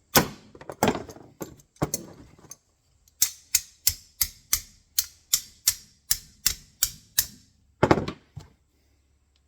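Sharp metal-on-metal strikes on the steel frame and jaws of an MB-550 foothold trap as a tool works a jaw up out of its groove toward the dog: three loud hits, then a run of about a dozen evenly spaced taps at about three a second, then one more loud hit near the end.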